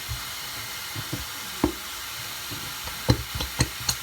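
Food frying in a pan with a steady sizzle, with a few knocks and clicks of things being handled, a single sharp knock a little over a second and a half in and a quicker run of them near the end.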